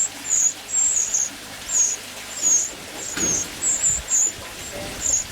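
Young wrens calling from the nest: short, high-pitched cheeps repeated about twice a second. A dull knock about three seconds in.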